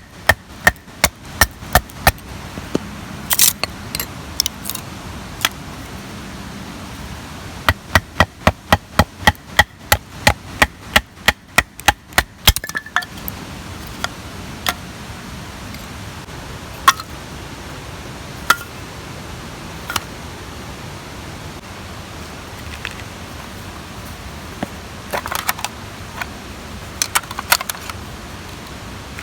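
Quick runs of sharp strikes, about five a second, first briefly and then for about five seconds in the middle, with scattered single strikes and a few short clusters in between.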